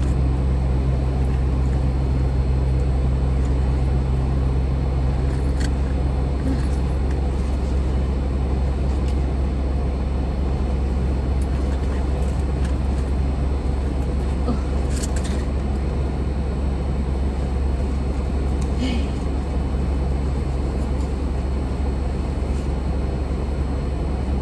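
Steady low drone of a car running, heard from inside the cabin, with a few faint clicks.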